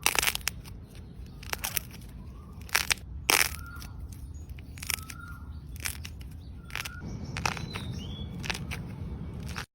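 Dry clay cracking and crumbling as it is crushed by hand, in a string of sharp, irregular cracks and crunches.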